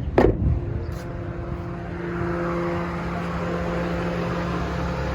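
An electric radiator cooling fan running with a steady hum that comes up about two seconds in, after a sharp clack just at the start.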